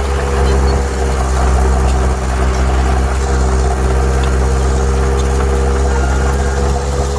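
Heavy diesel engine of earthmoving equipment running steadily with a deep, even rumble.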